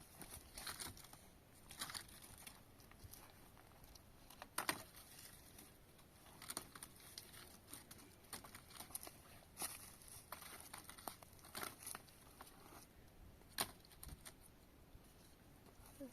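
Faint scattered rustling and light clicks with no steady tone, and a few sharper ticks now and then, the clearest about four and a half seconds in and near the end.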